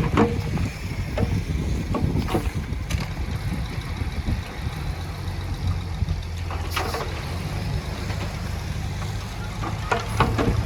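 Heavy construction machine's diesel engine running steadily, with a few short clatters of soil and stone.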